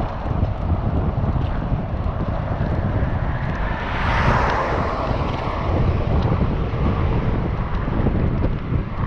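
Wind buffeting a GoPro action camera's microphone while riding a bicycle, a steady low rumble. About four seconds in, a broad hiss swells and fades.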